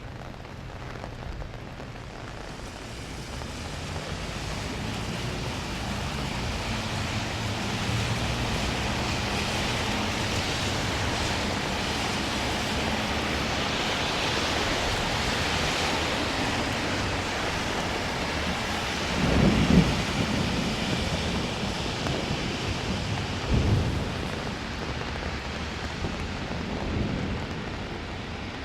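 Heavy rain hissing down while thunder rolls, a long low rumble that builds over several seconds. Two louder low booms come about two thirds of the way through, a few seconds apart.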